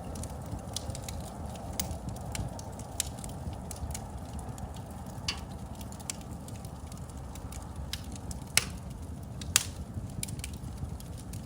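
Wood fire in a fireplace crackling: a steady low rumble of flames with frequent sharp pops, and two louder snaps about a second apart late on.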